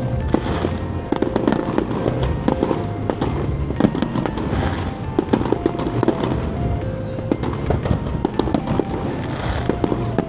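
Fireworks display: a dense, continuous run of bangs and crackles from bursting fireworks, with music playing underneath.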